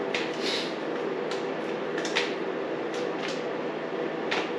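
Hand tools working the lower radiator hose clamps loose: a handful of light metallic clicks and scrapes, the loudest about two seconds in, over a steady background hum.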